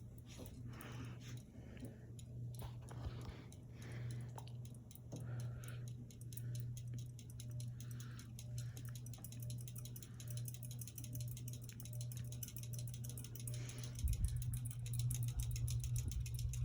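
Hampton Bay Landmark III Plus ceiling fan running on medium speed, still coming up to speed: a steady low motor hum with a faint, rapid, even ticking. About fourteen seconds in, a low rumble of moving air joins it.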